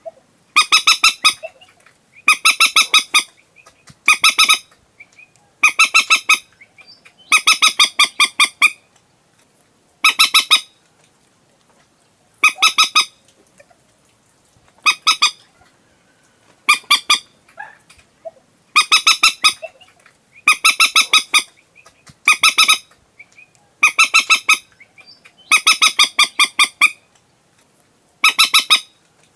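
Common moorhen calling in a lure recording: short bursts of rapid stuttering notes, repeated about every two seconds.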